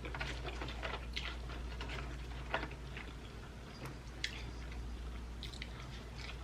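Close-miked chewing of sauced chicken wings: soft, wet mouth smacks and clicks at irregular intervals, over a steady low hum.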